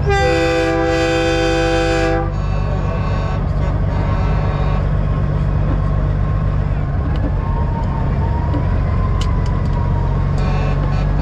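A truck's air horn blasting a chord of several notes for about two seconds, with a short break in the higher notes near the start. Under it and through to the end, a diesel truck engine drones steadily, and fainter horns sound later.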